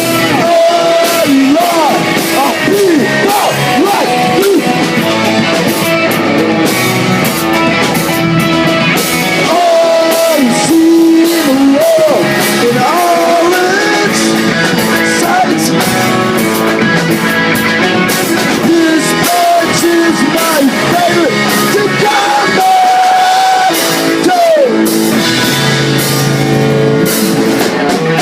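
Rock band playing live: electric guitars, drums and a sung lead vocal, loud and continuous.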